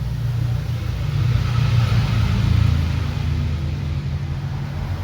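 An engine or motor running with a steady low hum that swells a little about two seconds in.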